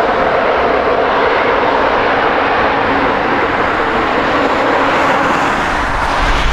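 Jet airliner engines running loud and steady, a dense rushing noise with a faint steady hum under it; a deeper rumble comes in near the end.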